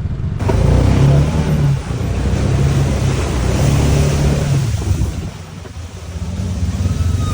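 Off-road UTV engine running while driving, its low drone shifting in pitch as it speeds up and eases off. The level dips about five and a half seconds in, then the engine picks up again.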